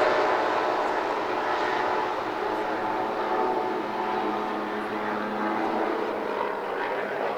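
Large radio-controlled Avro Lancaster model's four Zenoah 38 two-stroke petrol engines droning in flight, loudest at the start and easing off slightly as it passes.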